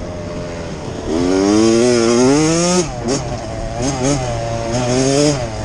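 Off-road dirt bike engine revving: a long climb in pitch for more than a second, then shorter rev rises and drops, over a steady high buzz.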